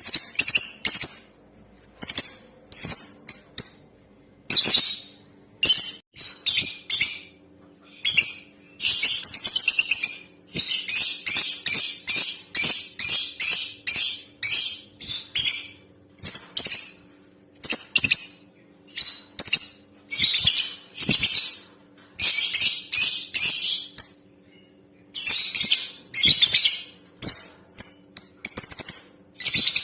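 Female lovebird calling in rapid, high-pitched chattering bursts, with a long, nearly unbroken run of chatter from about ten to fourteen seconds in, over a faint steady hum.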